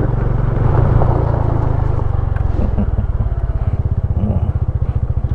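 Yamaha PG-1's small single-cylinder four-stroke engine running under the rider. About two to three seconds in it eases off into a slower, evenly pulsing beat.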